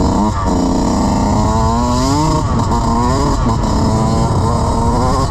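Dirt bike engine running under changing throttle, its pitch rising and falling several times, over a low rumble of wind on the microphone.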